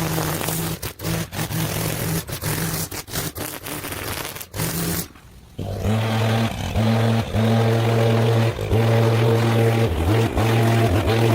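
A small engine running with many brief cut-outs at first. About halfway through it settles into a steadier, lower-pitched run broken by a few short dips.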